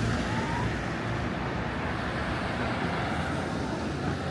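Steady city street traffic noise, with a vehicle's low engine hum fading away within the first second.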